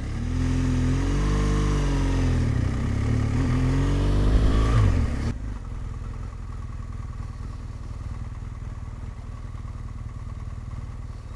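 BMW R1200GS boxer-twin engine pulling away, its pitch rising and falling through the gears for about five seconds, then cutting off abruptly to a steady, quieter low engine hum.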